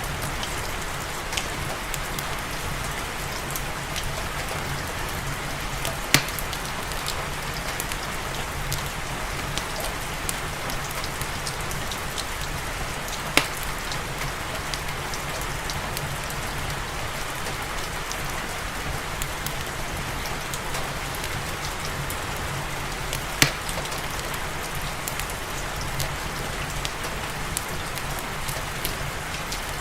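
Steady rain falling, mixed with a crackling wood fire in a fireplace whose sharp pops stand out now and then, loudest about six, thirteen and twenty-three seconds in.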